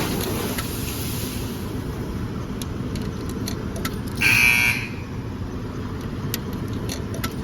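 Coin-operated car wash vacuum running steadily, with small clicks of debris rattling up the hose. About four seconds in, a brief loud buzzing tone sounds for about half a second.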